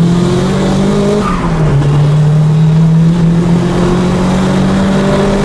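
Nissan Silvia S14's four-cylinder engine held at high revs under hard driving, heard from inside the car; the pitch dips briefly about a second in and then holds steady, over a hiss of tyre noise.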